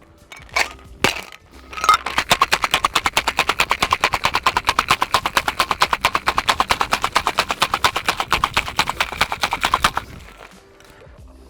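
Ice rattling hard inside a cocktail shaker being shaken, a fast, even clatter of about eight strokes a second for some eight seconds that stops abruptly, after a few single knocks as the shaker is closed.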